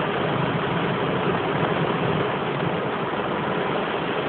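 Heavy rain falling in a thunderstorm: a steady, even hiss with no claps of thunder.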